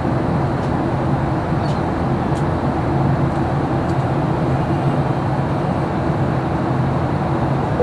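Steady cabin noise of a Boeing 737-800 in flight: the even drone of its CFM56-7B engines and the airflow over the fuselage. A few faint clicks come in the first half.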